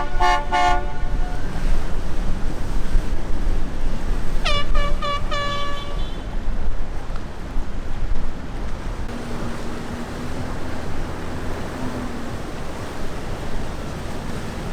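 Boat horns sounding in short toots: the last of a quick run of blasts just at the start, then four short toots about four and a half seconds in. Steady wind and water noise runs underneath.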